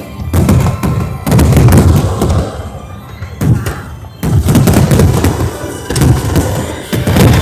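Fireworks going off: about six loud booms in the space of seven seconds, each with a rumbling tail.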